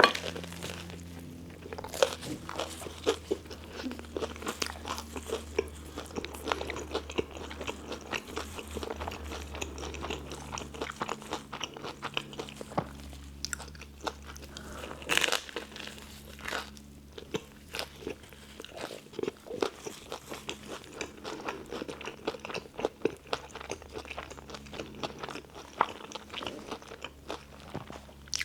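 Close-up chewing and crunching of a toasted tuna melt sandwich: a steady run of crisp crackles, with a louder crunch right at the start and another about fifteen seconds in.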